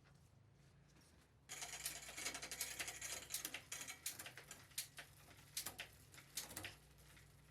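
A small ratcheting mechanism clicking rapidly and unevenly for about five seconds, starting about one and a half seconds in and stopping near the end.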